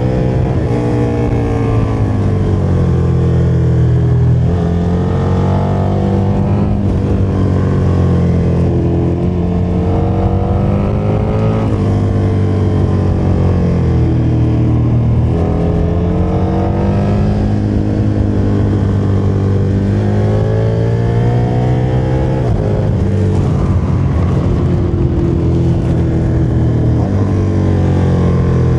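KTM motorcycle engine under way, the revs climbing and dropping back again and again as the rider accelerates through the gears and eases off.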